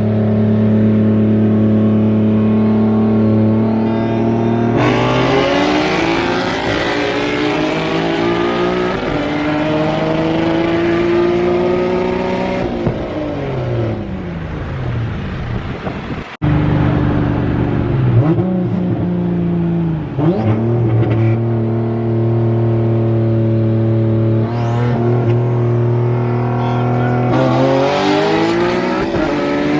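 Turbocharged Nissan 370Z's 3.7-litre V6 running on open turbo dumps with no exhaust fitted. It holds steady revs, then about five seconds in pulls hard with its pitch climbing for several seconds before dropping off; after a break it runs steady again with a couple of short blips, and near the end starts another hard pull.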